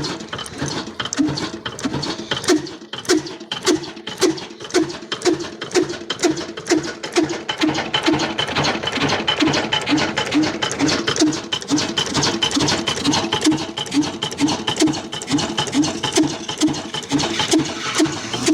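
Engine running steadily with a regular knocking beat of about two to three a second, over a constant mechanical clatter.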